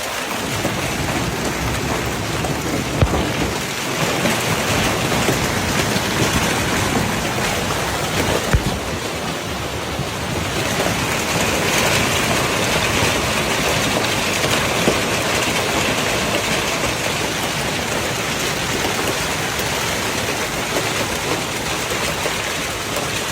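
Steady rushing noise of a heavy storm downpour, with a few sharp knocks scattered through it.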